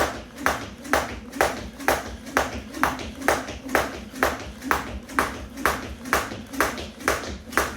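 A weighted 1 lb jump rope slapping the floor in a steady skipping rhythm, about two strikes a second.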